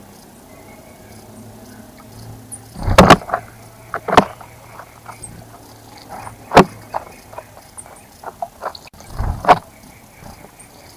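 A bird splashing in a bird bath: a few irregular, sudden loud splashes, with faint high bird chirps behind them.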